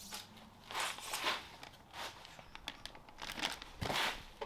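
Packaging crinkling and rustling in several short bursts as parts are handled and unwrapped.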